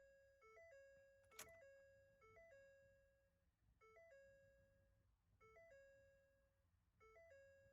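Faint electronic warning chime from the 2015 Ford F-250 Super Duty, a short run of stepped tones repeated about every second and a half, with one sharp click about a second and a half in.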